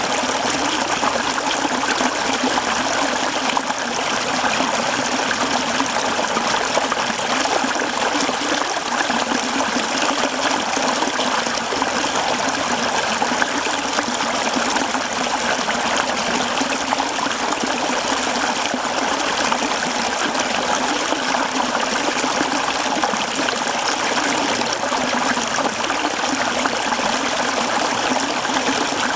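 Mountain stream flowing over rocks: a steady rush of water with no pauses or changes.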